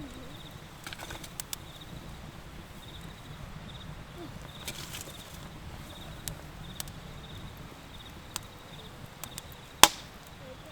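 Outdoor ambience with faint high chirps repeating in short groups, over a low steady hum, with scattered small clicks and one sharp loud click near the end.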